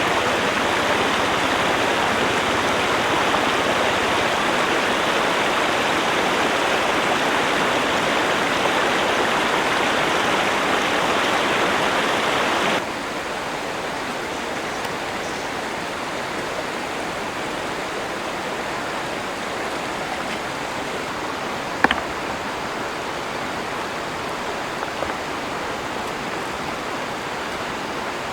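River water flowing steadily. The sound drops to a softer level about halfway through, and a single sharp click comes about three-quarters of the way in.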